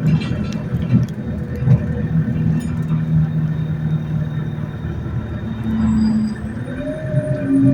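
ADL Enviro200 single-deck bus heard from inside the passenger cabin while under way: a steady low engine drone. A thin high-pitched whine comes in about six seconds in.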